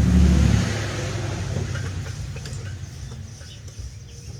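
A motor vehicle's engine hum that cuts off about half a second in, followed by a hiss that slowly dies away.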